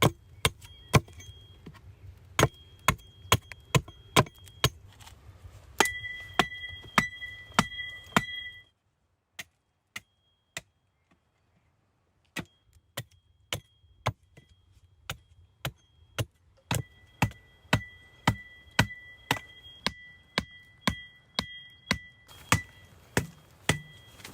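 A steady series of sharp chopping blows, about two a second, with a faint high steady tone between them. The blows stop for about three seconds near the middle, then pick up again at the same pace.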